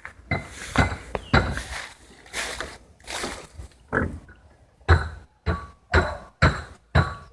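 Animal calls: a series of short, loud calls, irregular at first and then coming about twice a second in the second half.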